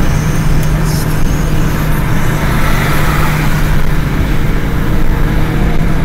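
Steady road and engine drone heard inside a car's cabin at motorway speed, with a constant low hum.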